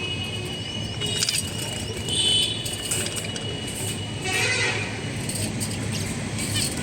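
Budgerigars chirping a few times, about one, two and four seconds in, over a steady low background hum.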